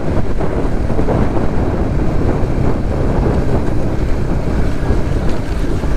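Heavy wind rushing over the microphone of a moving Suzuki GSX-S150 motorcycle, mixed with road and engine noise, loud and steady throughout.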